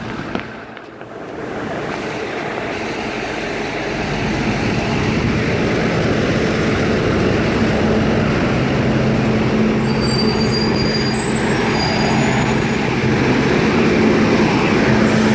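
A large vehicle's engine running and building up over the first few seconds into a steady hum with rushing noise. Thin, high-pitched squeals come in for a couple of seconds about ten seconds in.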